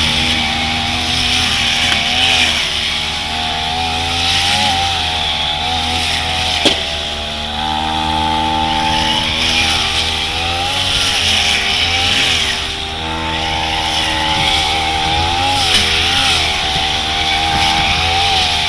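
Brush cutter fitted with a metal cutting blade, run at full throttle through thick grass; the engine's pitch wavers, dipping and recovering as the blade bites into the growth. One sharp knock about a third of the way through.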